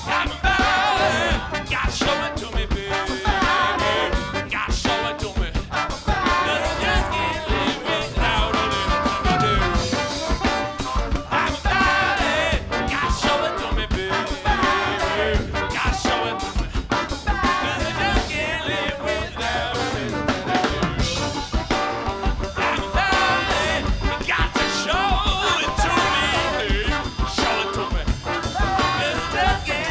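Live funk band playing: bass, drum kit and horns in an upbeat groove, with a steady drum-kit beat.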